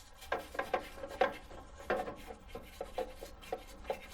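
Emery cloth rubbed back and forth on the cut end of a brake line, cleaning it up for a compression fitting: a run of short scraping strokes, a few a second.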